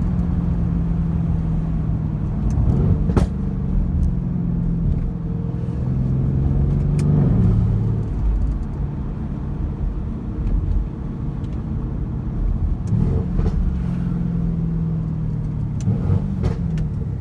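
Mercedes-AMG C63 S's twin-turbo V8 exhaust running under way, its note shifting with gear changes several times. Sharp crackles and pops come from the exhaust at the shifts, about 3 s and 7 s in and again near the end.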